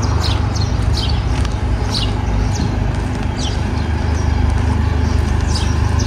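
Small birds chirping: a string of short, quick, falling chirps, several each second.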